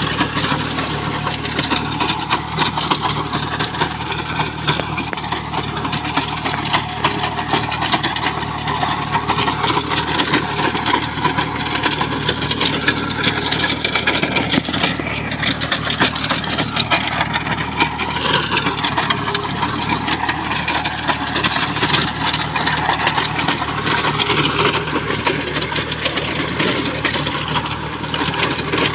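Small Kubota tractor's diesel engine running steadily, with a continuous fine mechanical clatter.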